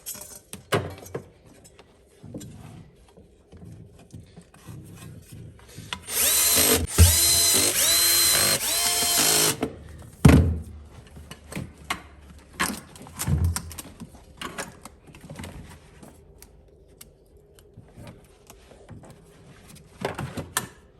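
Cordless drill-driver running in four or so short bursts, each rising in pitch as it spins up, driving in the screws of a cover plate; sharp knocks follow, with light clicks of handling around them.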